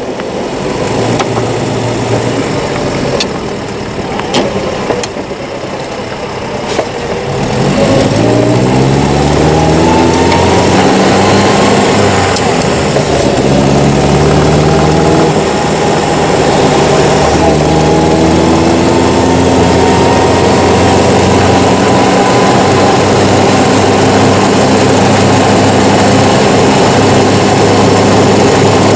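1938 Austin 10 Cambridge's four-cylinder side-valve engine pulling away. It is quieter at first, then rises in pitch as the car accelerates, drops back at gear changes about twelve and sixteen seconds in, and runs steadily at cruising speed from about eighteen seconds on.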